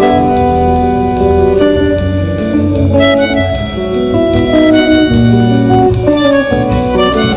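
Tango quartet of bandoneón, guitar, double bass and drums playing a milonga: the bandoneón's reedy held notes over plucked guitar and bass and light percussion.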